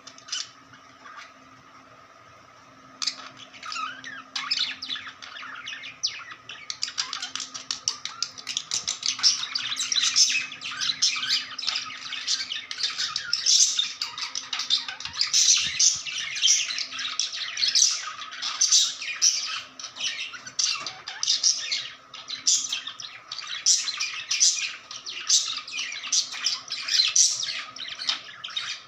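Budgerigar chattering and warbling, the happy sound of a contented budgie. After a couple of single chirps it breaks about three seconds in into a dense, continuous run of quick high chirps and squawks. A faint steady hum sits underneath.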